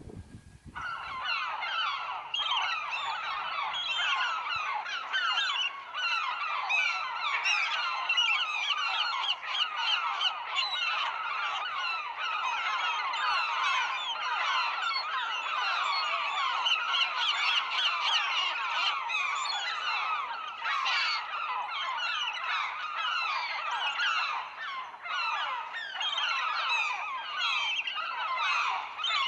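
A flock of seagulls calling, many birds at once in a dense, continuous chorus of short cries.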